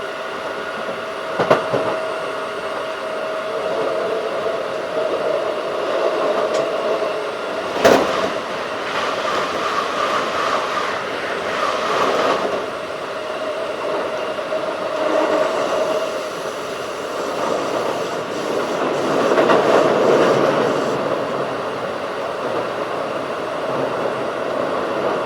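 Keikyu 1500 series field-chopper electric train running, heard from on board: a steady rumble of wheels on rail, with sharp clacks about a second and a half in and again about eight seconds in. A steady tone fades out about seven seconds in.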